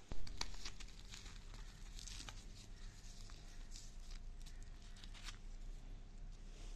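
Close-up eating sounds: food being torn apart and handled by hand, a string of short, soft clicks and rustles with a sharper click just after the start.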